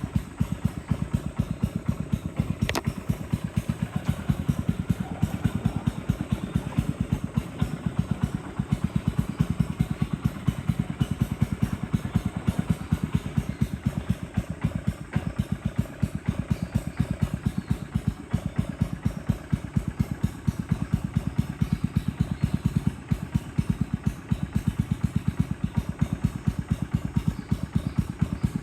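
A small boat engine running steadily, its exhaust beating in rapid, even pulses.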